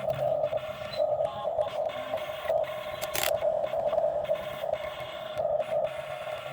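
Excavator at work: a steady mechanical drone with scattered clicks and a sharper knock about three seconds in.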